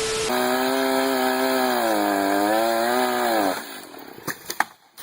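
Chainsaw running at high revs; its pitch sags slightly partway through, then rises again before dropping away about three and a half seconds in. A few faint clicks follow.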